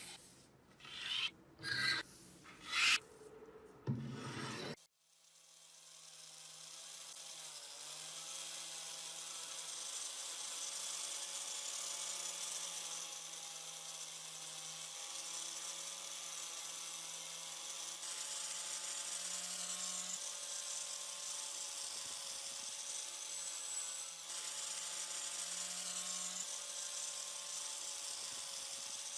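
A few short rubbing or scraping strokes on metal parts, then a small electric power tool starts about five seconds in. It builds up over a few seconds and then runs steadily, its pitch wavering slightly, as it works on the parts.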